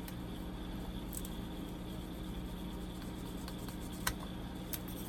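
Hands working strips of sellotape along the decals on a plastic model kit, giving a few faint small clicks and taps. Under them runs a steady low hum.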